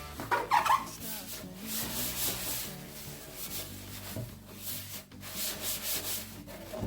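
Repeated rubbing strokes of a surface being scrubbed or wiped, coming in irregular pulses.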